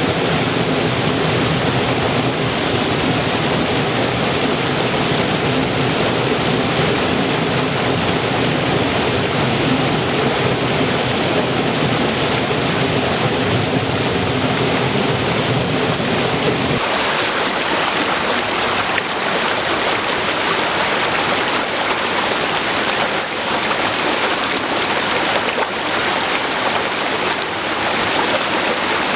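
River water flowing, a steady full rush of running water. About seventeen seconds in it changes abruptly to a thinner, brighter rush with less low rumble.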